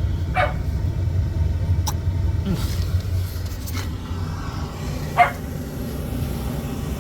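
Gas package HVAC unit running with a steady low hum, while a dog gives a few short barks, the loudest about five seconds in.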